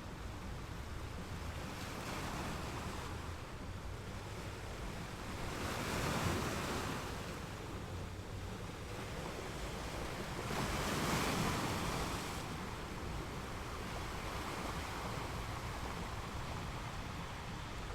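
Ocean waves washing onto a beach: a steady surf hiss with two louder swells as waves break, about six and about eleven seconds in.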